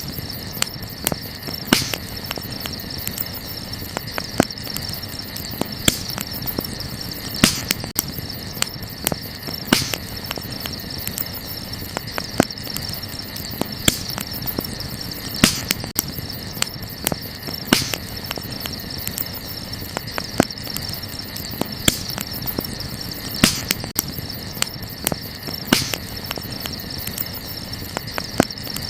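Wood campfire crackling, with sharp pops every second or two, over a steady chorus of crickets.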